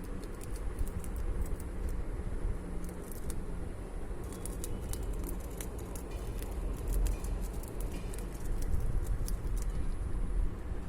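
Squirrel crunching on chips: many quick, crisp ticks, thickest in the middle and later part, over a steady low outdoor rumble.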